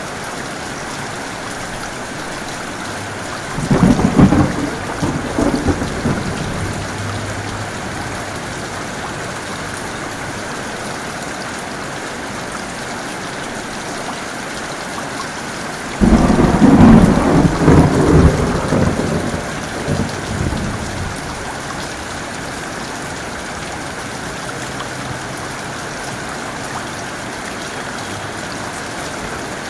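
Heavy rain falling steadily, with two claps of thunder: one about three and a half seconds in that rumbles away over a few seconds, and a louder one about halfway through that starts suddenly and rolls on for several seconds.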